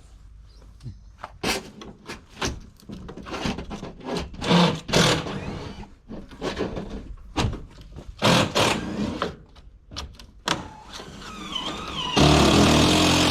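Irregular clanks, knocks and scrapes of metal siding and framing being pulled and handled, then near the end a loud power tool starts up and runs steadily.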